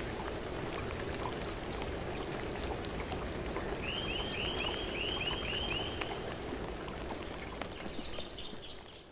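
Outdoor woodland ambience: a steady hiss dotted with faint small ticks, with a songbird singing a quick run of about eight repeated notes about four seconds in. The sound fades out near the end.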